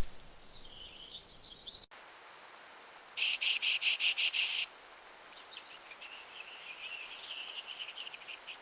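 Wild bird calls: a short high call, then a loud, rapidly pulsed trill lasting about a second and a half, followed by a fainter, longer sputtering trill.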